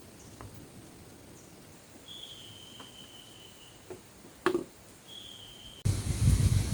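Quiet forest ambience with a high, steady whistle-like call twice, the first lasting under two seconds, and a single soft knock. Near the end a loud rush of noise cuts in abruptly.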